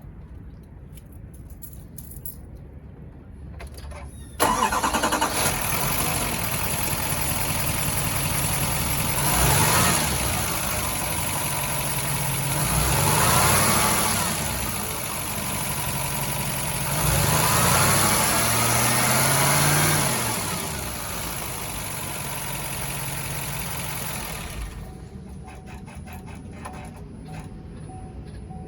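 2023 Chevrolet 6500 medium-duty truck's 6.6-litre Duramax diesel engine cranking and catching about four seconds in. It then idles and is revved three times, each rev rising and falling in pitch, with a steady high whine while it runs. It settles back to idle and is shut off near the end.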